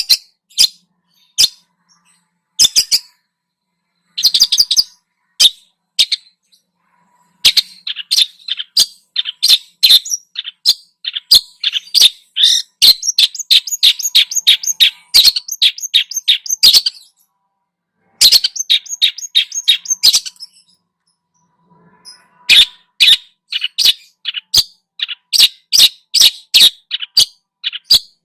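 Songbird singing in quick, sharp chirps. The calls come sparsely at first, then in long fast runs about seven seconds in, break off briefly twice, and pick up again in a dense run near the end.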